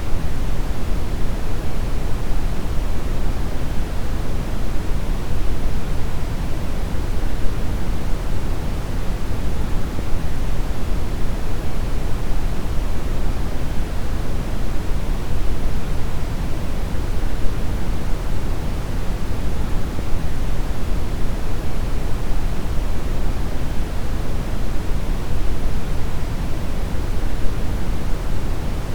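Steady deep brown noise: an even, unbroken hiss weighted heavily toward the low end, like a deep rumble with little treble.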